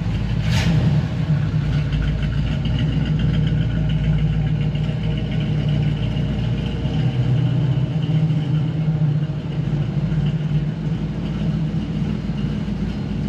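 Chevrolet Nova SS engine running steadily at low revs as the car moves in slowly. There is one short sharp noise about half a second in.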